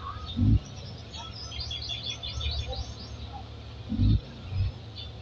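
A bird singing a quick run of short, high chirps, about five a second, for roughly two seconds. Dull low thumps break in about half a second in and twice near the end, louder than the bird.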